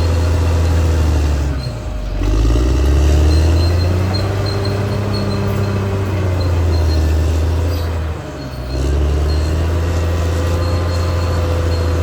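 Caterpillar D6R XL bulldozer's diesel engine running steadily under load. Its pitch drops and climbs back twice, about two seconds in and again about eight seconds in.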